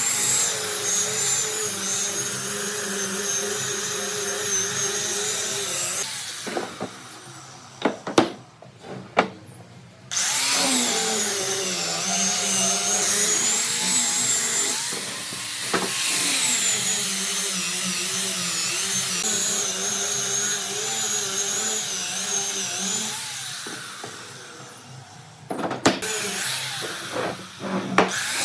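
Electric power tool motor running, its pitch dipping and recovering as it is loaded. It winds down about six seconds in, a few sharp knocks follow, and it starts up again about ten seconds in. Near the end it winds down again, there are more knocks, and it starts once more.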